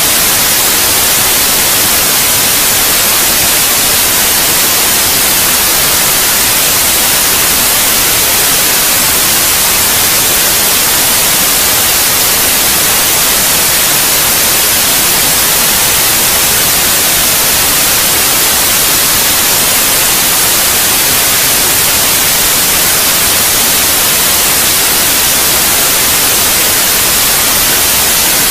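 Steady white noise used as a baby sleep aid: a loud, even hiss, brightest in the high frequencies, that never changes.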